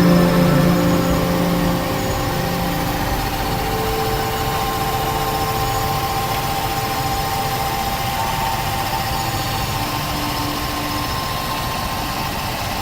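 Range Rover Classic engine idling steadily.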